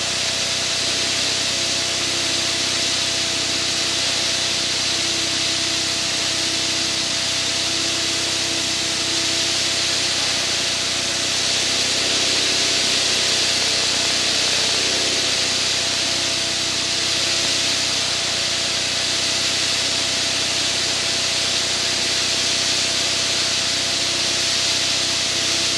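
Steady in-flight aircraft noise heard inside the cockpit: engine drone with a constant hum and rushing airflow hiss, rising slightly about halfway through.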